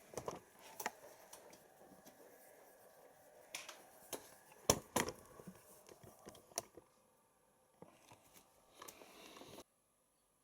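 Siemens iQ front-loading washing machine in its prewash, faint drum tumbling with irregular clicks and knocks. The sound cuts off suddenly near the end.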